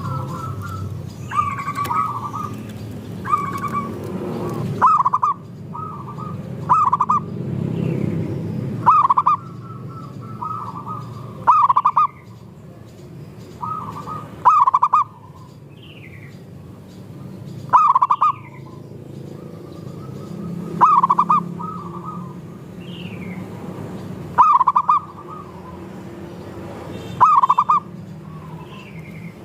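Zebra doves (perkutut) cooing: short phrases of cooing notes repeat every two to three seconds, over a low steady rumble. Faint, higher falling chirps from small birds come in between.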